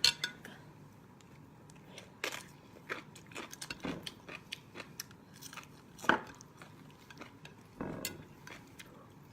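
Close-up eating sounds: scattered crisp bites and crunchy chewing. The loudest crunches come right at the start and about six seconds in.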